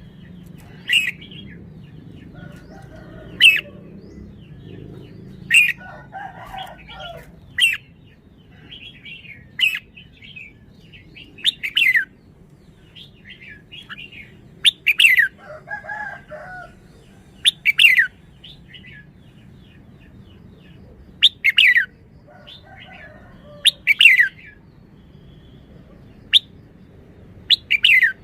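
Red-whiskered bulbul calling: short, loud notes that slide sharply downward, repeated every two to three seconds, with softer chirps in between.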